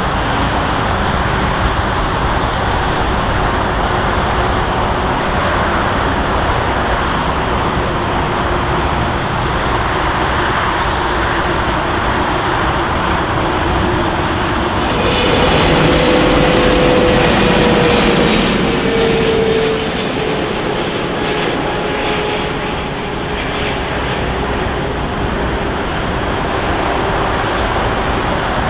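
Widebody jet airliner engines with a steady, loud rushing noise. About halfway through the sound changes and grows louder for several seconds, with a whine that slowly falls in pitch as the jet passes.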